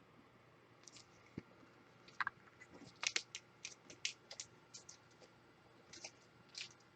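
Trading cards being handled: a faint, scattered series of short light clicks and ticks, busiest around the middle.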